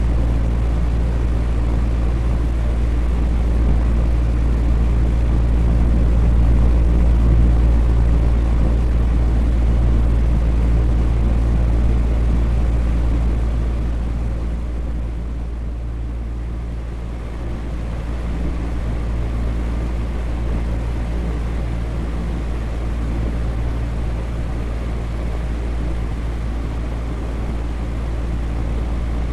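Electric fan running steadily: an even rush of moving air over a low hum, easing slightly about halfway through.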